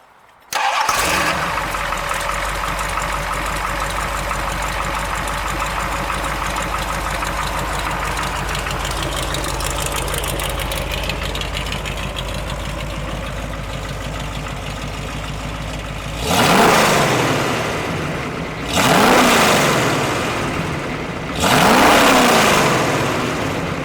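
1974 Jeep CJ5's 360 cubic-inch V8, breathing through long-tube headers and glasspack mufflers, starts about half a second in and idles steadily. Near the end it is revved three times, each rev rising in pitch and falling back to idle.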